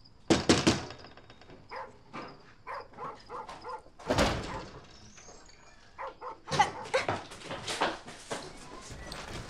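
A dog barking and whimpering in a series of short yelps, with a louder burst about four seconds in.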